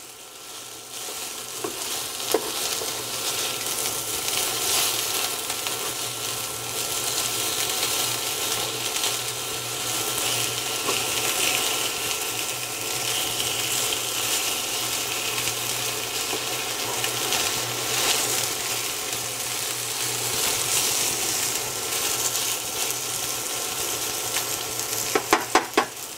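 Chunks of boneless chicken breast sizzling steadily as they sauté in olive oil in a skillet, with a few sharp clicks near the end.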